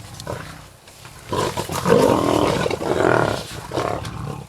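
Lions growling and snarling while feeding on a zebra carcass, a loud stretch starting about a second and a half in and lasting about three seconds.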